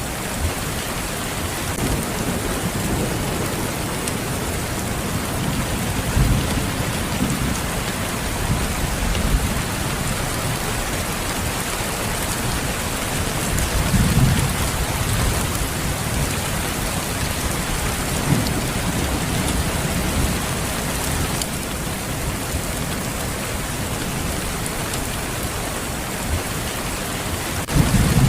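Steady rain falling, with a few low rumbles of thunder swelling and fading under it: about six seconds in, around the middle, a little later, and again at the very end.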